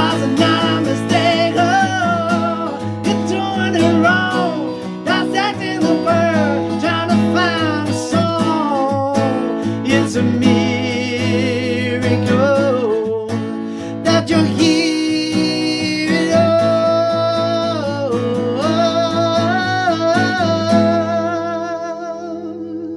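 Acoustic guitar strummed and picked, with a wordless vocal melody over it; the music dies away near the end.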